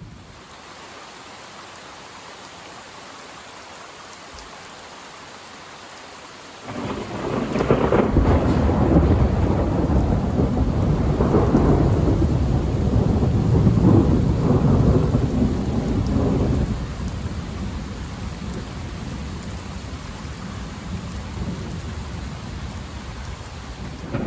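Heavy rain falling steadily, then thunder from a close lightning strike breaks in suddenly about a quarter of the way in. The thunder is a loud, deep rumble lasting about ten seconds, then it eases off into a lower rolling rumble under the rain.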